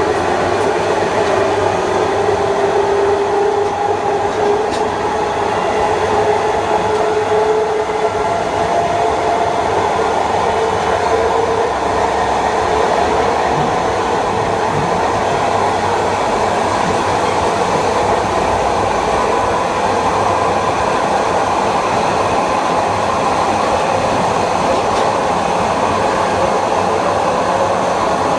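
Kawasaki M9 electric multiple unit running on rails: the whine of its Mitsubishi IGBT-VVVF inverter and AC traction motors over steady wheel and rail noise. The whine climbs slowly in pitch over the first dozen seconds, then fades into the running noise.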